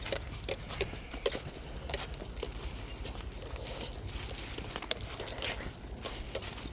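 Footsteps on a path: a string of uneven clicks and scuffs as someone walks along.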